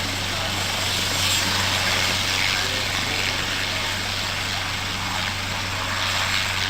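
Propeller aircraft engine running steadily, a constant low drone under a wash of engine and air noise.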